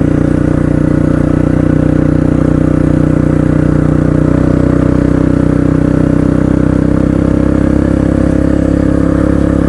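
Honda CRF230's single-cylinder four-stroke engine running steadily at an even speed, without revving up or down.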